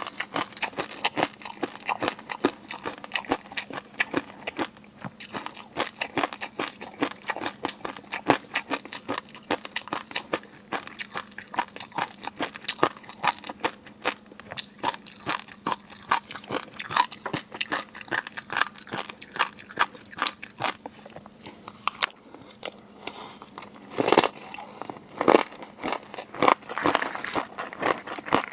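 Close-miked ASMR eating of seafood: steady chewing and biting with rapid crunchy clicks, several a second.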